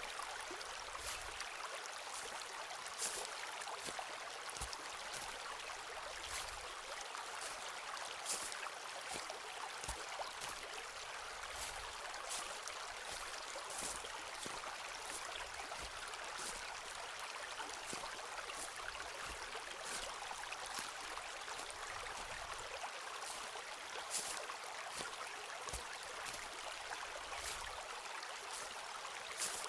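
Footsteps of someone walking slowly along a forest path, a short crisp step every second or two, over a steady rushing background.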